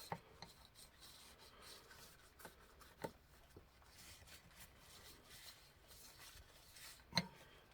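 Faint clicks and light rubbing as small clock-movement parts are handled.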